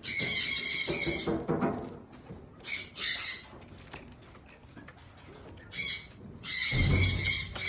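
Bird calls in an aviary: four raspy, high-pitched bursts. The first lasts about a second, short ones come near 3 s and 6 s, and a second-long one comes near the end, with a low rumble or thud under the last.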